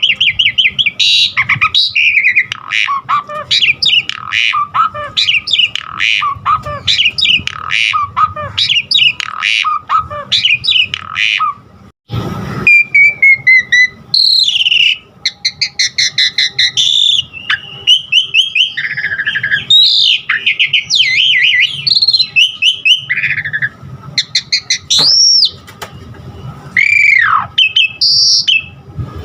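Jalak suren (Javan pied starling) singing a fast, loud run of chattering and whistled notes, mixed with imitated calls of other birds. After a brief break about halfway through, the song turns to clearer whistles, with several long glides that rise and fall.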